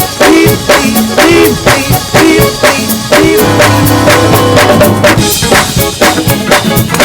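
Live gospel band playing an up-tempo groove with no singing: a drum kit strikes in a fast, steady rhythm over pitched band instruments, with one chord held for a second or so midway.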